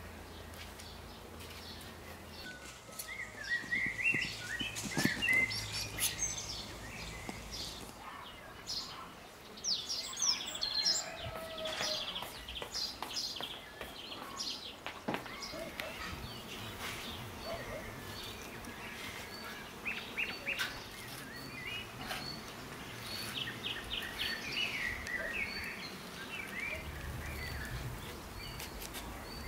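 Small birds chirping and singing in short phrases, on and off throughout, over steady outdoor background noise.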